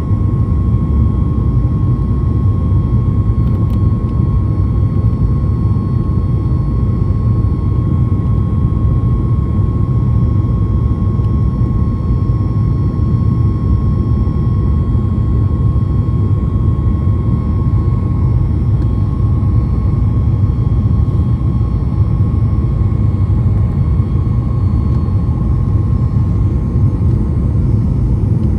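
Cabin noise inside a Boeing 737 MAX 8-200 airborne after takeoff: a steady, deep roar from its CFM LEAP-1B jet engines and the airflow, with a thin steady whine just above 1 kHz that eases slightly after the middle.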